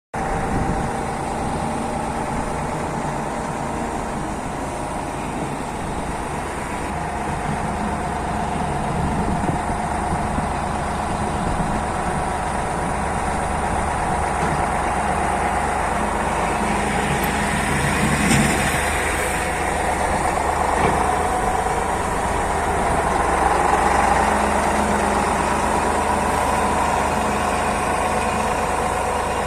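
Freshly overhauled YaMZ-236 turbocharged V6 diesel of a T-150 wheeled tractor running steadily, swelling briefly a couple of times past the middle.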